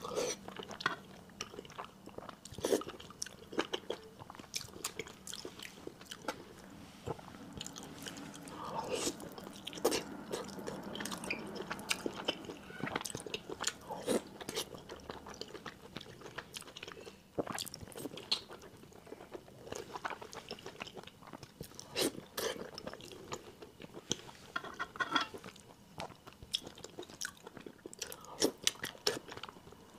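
Close-miked mouth sounds of a person biting and chewing soft, fatty braised pork: wet smacking with many sharp irregular clicks and no talking.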